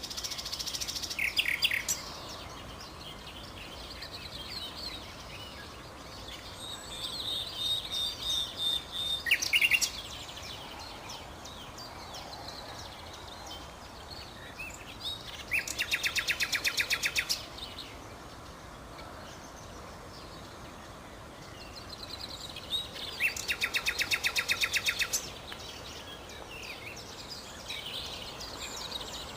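Common nightingale singing in separate phrases of varied whistles and chirps, with two loud, fast runs of repeated notes, each lasting about two seconds, in the middle and later on. A steady background hiss lies under the song.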